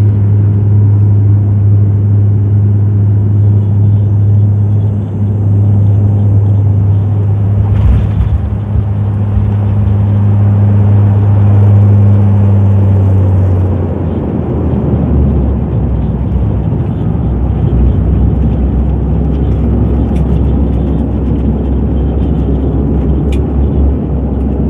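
Airliner cabin noise after landing: the engines' loud, steady low drone, which drops to a lower pitch about halfway through.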